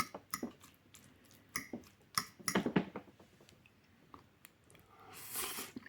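A person taking a taste of coconut rice and peas: quiet chewing with scattered small clicks and taps, then a soft breath near the end.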